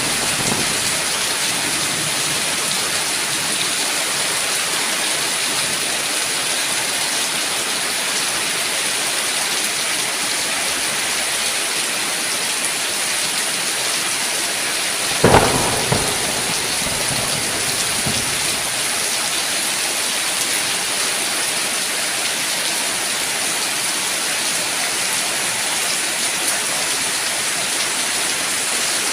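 Heavy rain falling steadily, with a short crack of thunder about halfway through that rumbles away over the next few seconds.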